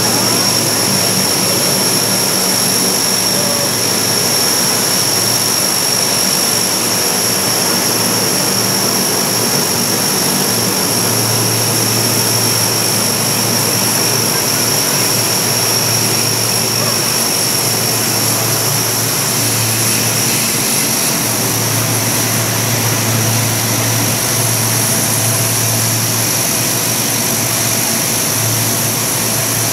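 Aircraft engines running steadily, with a high constant whine over a low drone that swells and eases from time to time.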